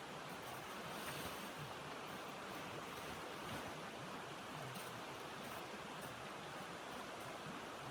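Steady rushing noise of blizzard wind, even throughout.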